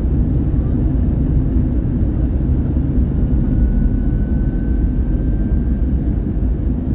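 Cabin noise inside an Airbus A321-111 in flight: a loud, steady low rumble of airflow and CFM56 turbofan engines, with a faint thin whine in the middle few seconds.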